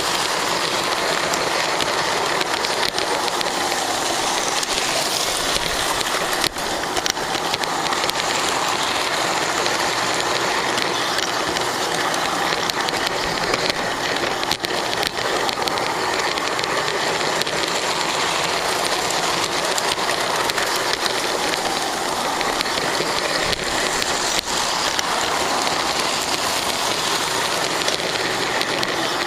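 Lionel GP9 O gauge model locomotive running along its track, a steady rushing whir of wheels and motor heard from a camera riding on it, with an occasional faint click.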